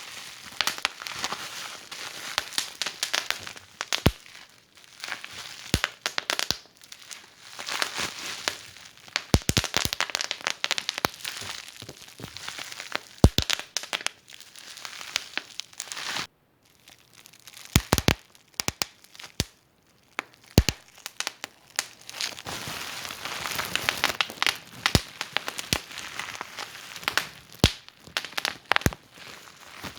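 Wood fire in a fireplace crackling, with irregular sharp snaps and a few louder pops over a steady hissing crackle. There are two short lulls a little past halfway.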